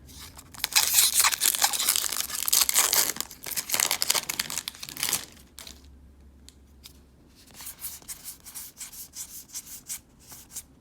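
A Magic: The Gathering Core Set 2020 booster pack's foil wrapper is torn open and crinkled for about five seconds. Lighter rustling and ticks of the cards being handled follow.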